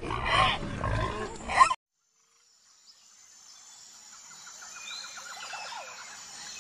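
Pigs grunting, cutting off abruptly under two seconds in. After a second of silence, faint bird calls and a rapid trill fade in.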